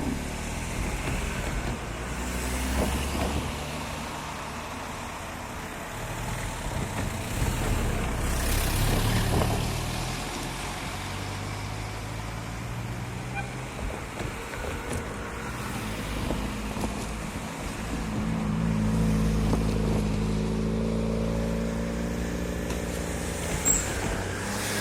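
Diesel shunting locomotive's engine running, throttling up and working harder for several seconds near the end.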